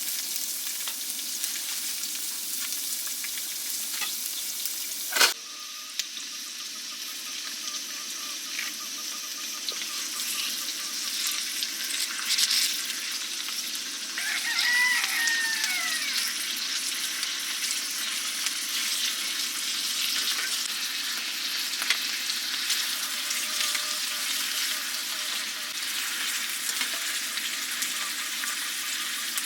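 A steady sizzling hiss, with a sharp click about five seconds in and a brief bird call about halfway through.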